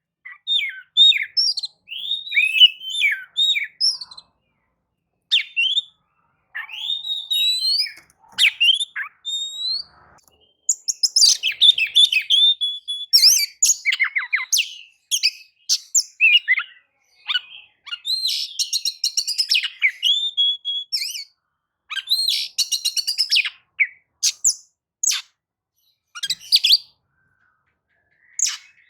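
Oriental magpie-robin in full song: a long, varied run of whistles, chirps and fast trills, delivered in phrases broken by short pauses.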